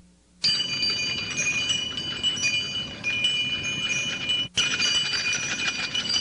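Bells and chimes tinkling: many high ringing tones overlap, starting about half a second in, with a brief break a little after halfway.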